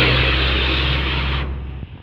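Heavy truck passing close by: a low diesel engine drone over tyre and road noise, which drops away sharply about one and a half seconds in.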